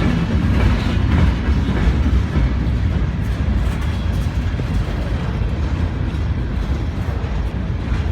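Long freight train rolling past with a steady low rumble and wheel clatter, its air brakes applied as it slows.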